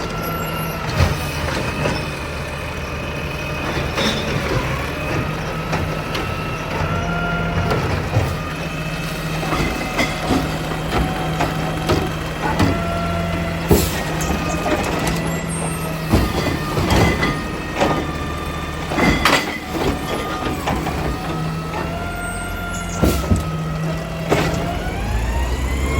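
Garbage truck's diesel engine and hydraulic packer running, the engine speeding up and settling again several times as the hydraulics work, with a whine that rises and falls in pitch. Sharp clanks and bangs of metal come in now and then, loudest a little past the middle.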